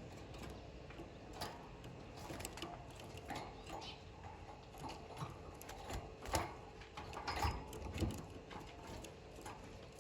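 Canaries moving about in a cage: scattered light clicks and taps at an uneven pace, with a brief, faint chirp or two in the second half.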